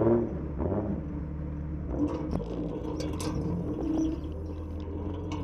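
Jeep engine running at low speed while crawling over a rocky trail, with scattered clicks and knocks from about two seconds in.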